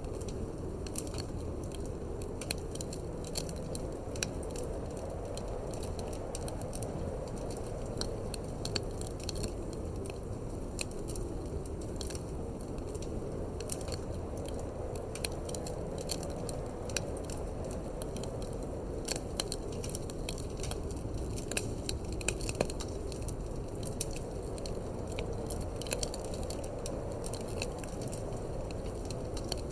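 Wood fire in a fireplace crackling, with many irregular sharp snaps and pops over a steady low rushing of wind.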